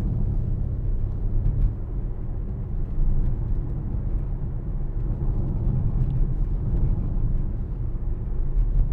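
Mercedes-AMG GLC63 S 4.0-litre twin-turbo V8 SUV being driven at an easy pace, a steady low rumble of engine, exhaust and road noise with its sports exhaust switched on.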